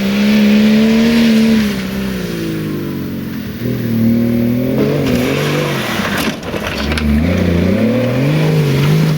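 Range Rover 4x4 with a swapped-in BMW 3.0-litre straight-six diesel working through off-road terrain, the engine revving up and falling back again and again under load. A few sharp knocks come about six seconds in.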